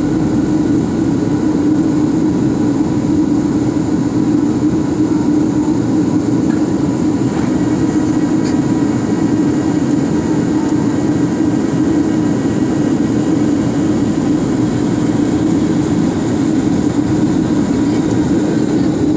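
Steady cabin noise of an airliner on approach to landing: engines and rushing air heard from inside the cabin, a constant loud drone with a strong low hum.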